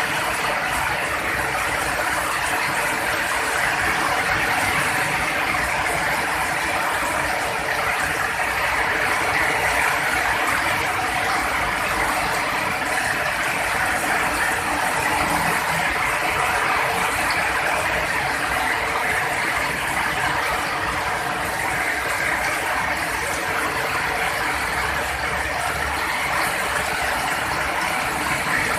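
Heavy rain falling steadily, a dense even hiss. A low rumble comes in near the end.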